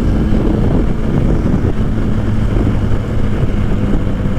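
Motorcycle engine running steadily while riding, with wind noise on the rider's microphone.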